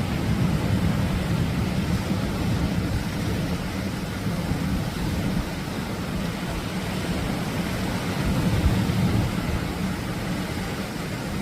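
Atlantic surf washing in as a steady low rush of noise, swelling and easing slightly as the waves break.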